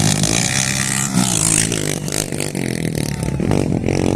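Motorcycle engines running and revving, their pitch rising and falling.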